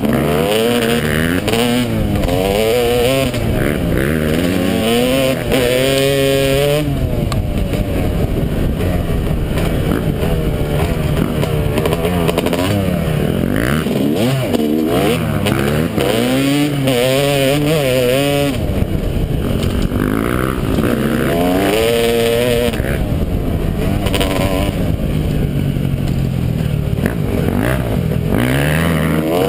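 Yamaha dirt bike engine revving up and down over and over as the throttle is worked and the gears change.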